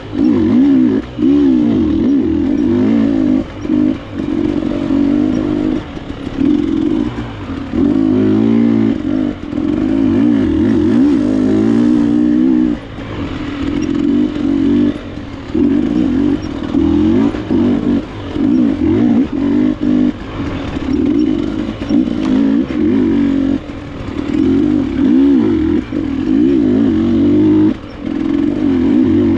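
KTM enduro dirt bike engine revving up and down as the throttle is worked on and off, with pitch rising and falling and many brief dips where the throttle closes.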